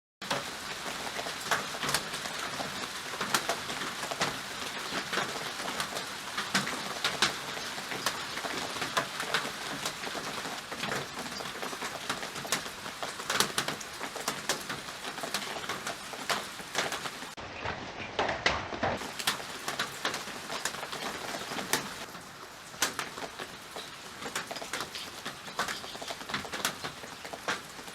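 Steady rain falling, with many sharp drops tapping on a nearby surface.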